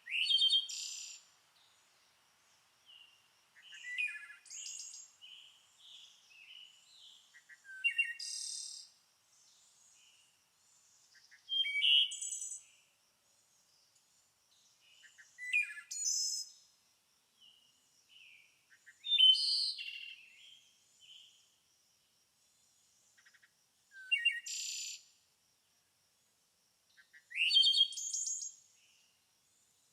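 Bird song: short, varied chirping phrases coming about every four seconds, with quiet gaps between.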